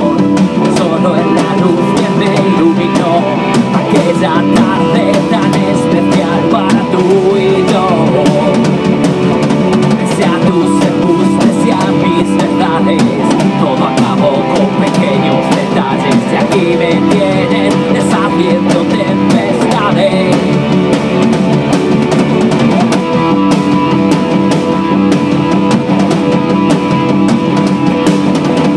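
Rock band playing with drum kit and guitar, a passage with no sung words.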